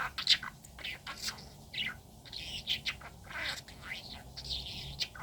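Budgerigar chirping and warbling in quick, short bursts.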